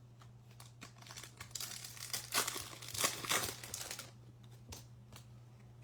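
Foil wrapper of a Topps Chrome trading card pack crinkling as it is torn open, a dense crackle for about two and a half seconds from about a second in, loudest near the middle, with a few light clicks either side.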